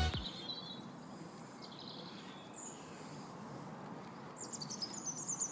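Faint bird chirps over a steady background hiss, with a quick run of chirps near the end.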